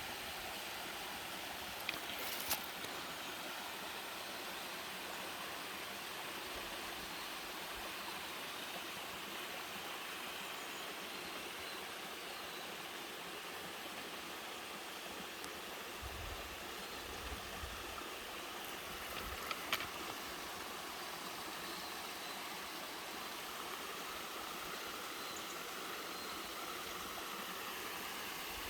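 Mountain stream flowing steadily over rocks, a continuous even rush of water, with a few faint clicks.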